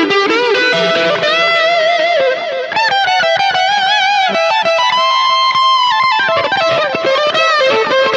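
Fender electric guitar, a Mexican-made body with a US neck, playing a melodic lead line. Its notes are bent and shaken with vibrato, some held for a second or more, in a warm tone.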